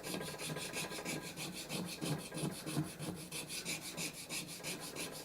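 Repeated scraping and rubbing strokes on the bottom of a canary wood bowl as damp, water-softened Titebond glue residue is worked off. The strokes come unevenly, a few a second.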